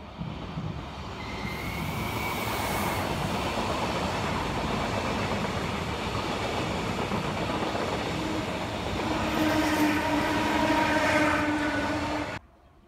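SBB RABDe 500 ICN electric tilting train passing close by, its wheels and running gear making a loud, steady rush that builds over the first couple of seconds. A thin high tone sounds briefly about two seconds in, and several steady tones come in during the last few seconds. The sound cuts off suddenly near the end.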